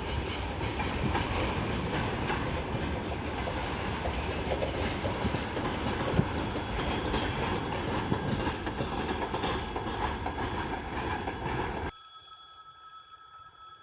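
A train passing close by, a loud steady rumble and clatter of wheels on the rails. Near the end it cuts off abruptly to a much quieter background with a few faint steady tones.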